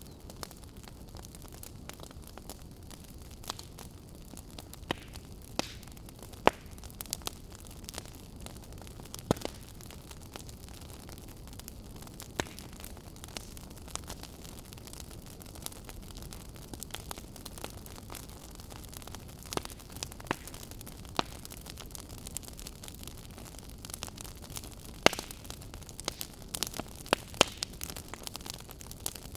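Wood fire burning: a steady low rush with irregular sharp crackles and pops from the burning logs, more frequent near the end.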